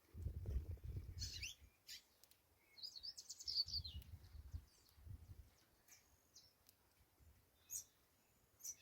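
Saffron finch singing in short bursts of high, quick chirping phrases: one about a second in, a longer dense one around three seconds in, then a few single chirps. A low rumbling noise comes and goes under the song.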